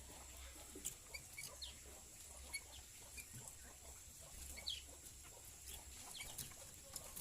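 Small birds giving short, scattered high chirps and brief downward-gliding calls, faint, over a steady high-pitched tone.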